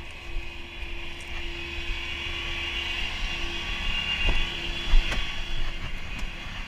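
Tow truck's engine running steadily with a constant hum, with a couple of light knocks about four and five seconds in.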